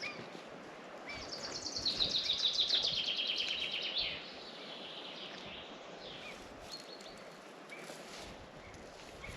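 A songbird singing one fast trill of rapid notes that steps down in pitch, starting about a second in and lasting about three seconds, followed by a few short, high chirps from birds.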